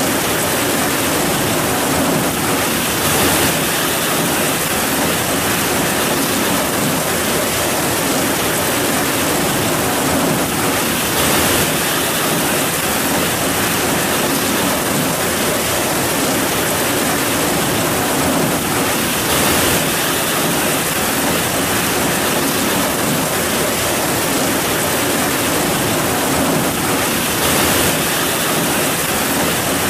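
Heavy rain falling, a dense steady hiss that swells briefly about every eight seconds.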